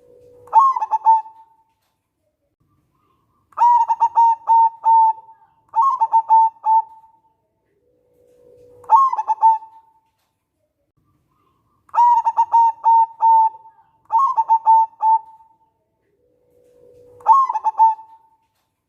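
Zebra dove (perkutut) cooing song: a low drawn-out note that steps up into a phrase, followed by two runs of quick staccato coos. The sequence repeats about three times.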